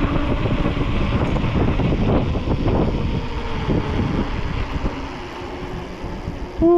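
Wind buffeting the microphone of a camera carried on a moving bicycle: a loud, gusty rumble that rises and falls.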